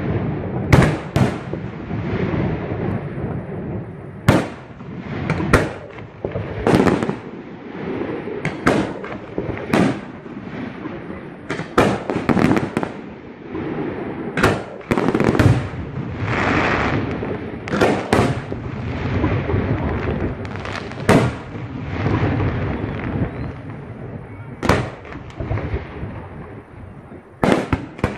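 Fireworks going off: sharp bangs at irregular intervals, often a second or two apart, over a continuous rumble and crackle of bursts.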